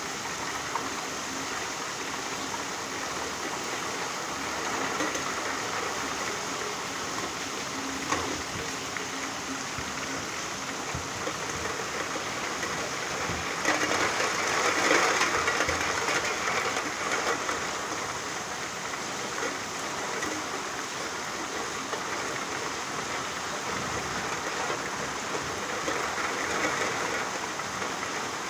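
Rain falling steadily, a dense even hiss that swells louder for a few seconds about halfway through.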